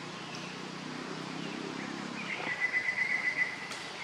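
A bird giving a rapid high trill of about a second, roughly nine notes a second, in the second half. Before it, a faint low hum fades out, and a single click follows the trill.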